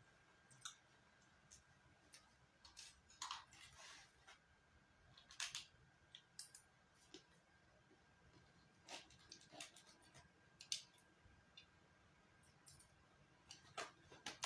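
Faint, scattered clicks and short crackles from eating and handling food and utensils, over a faint steady high tone.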